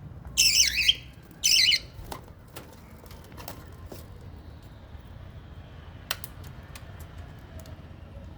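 Small pet parrots in an aviary: two loud, harsh squawks close together near the start, then scattered short chirps and clicks.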